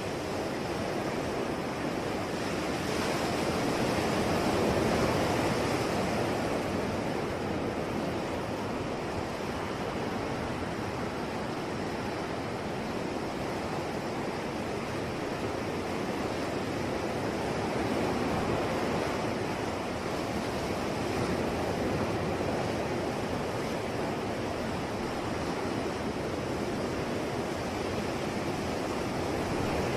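Sea waves breaking and washing in as a continuous surf, slowly swelling and easing in loudness.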